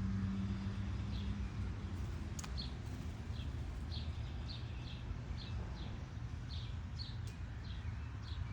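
A small bird chirping repeatedly, short high notes about two a second, over a steady low rumble.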